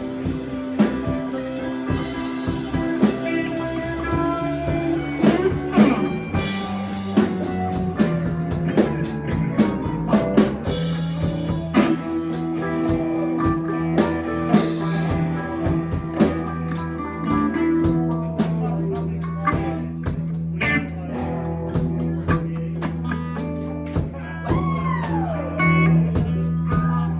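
Live blues-rock band playing: electric guitar over bass and a drum kit.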